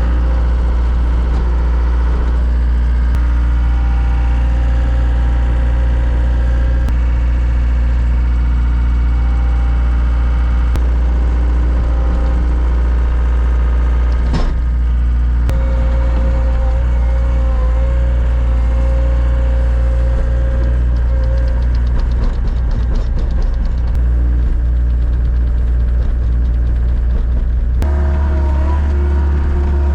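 Wheel loader's diesel engine running steadily at low speed, with a strong low hum. There is a sharp click about halfway, and the engine note changes near the end.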